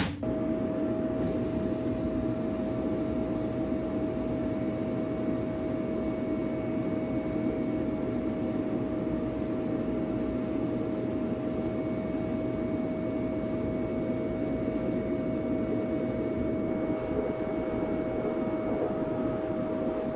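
Sandblasting cabinet running: a steady rushing noise of air and abrasive with a constant whine, level and unbroken.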